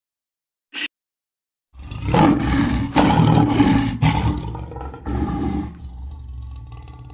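Male lion roaring: deep, loud roars begin a little under two seconds in, with a second push around five seconds, then die down to a quieter low rumble.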